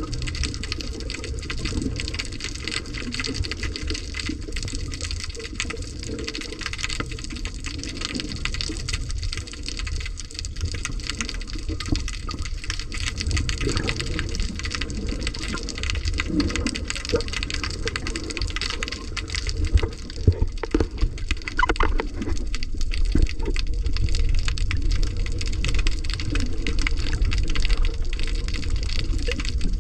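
Steady rushing, sloshing water noise over a low rumble, with a few brief knocks and a short gliding tone about two-thirds of the way through.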